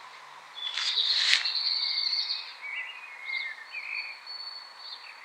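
Small bird singing: a run of high whistled notes and quick warbling chirps, loudest about a second in, over a steady hiss of outdoor background noise.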